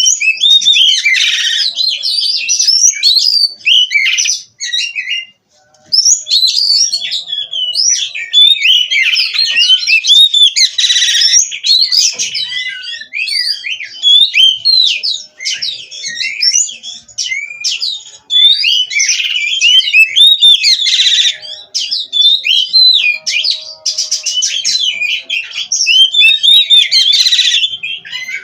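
Oriental magpie-robin (kacer) singing nonstop, a rapid stream of varied whistles and chirps, broken only by a short pause about five seconds in.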